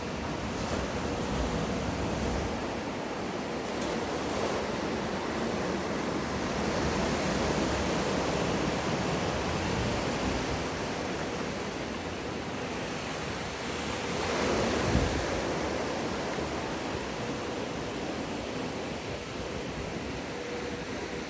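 Wave-pool wave breaking and rushing water: a steady wash that swells over the middle and surges briefly about two-thirds of the way through.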